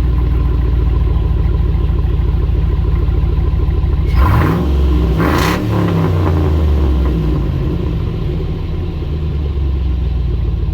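Pickup truck engine idling loudly, then revved twice, about four and five and a half seconds in, before settling back to idle.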